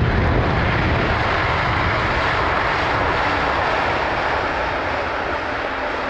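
Jet noise from a China Southern Airlines Boeing 787-9 Dreamliner passing close by: a loud, steady rush with a low rumble that eases off, the whole sound fading slowly.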